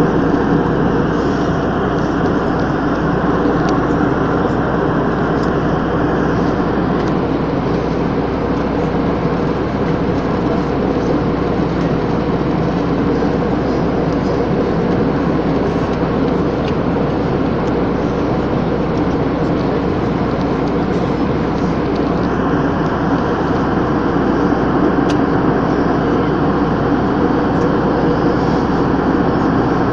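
Steady drone of an airliner in flight heard inside the cabin: engine and airflow noise, even and unbroken, with a low hum running through it.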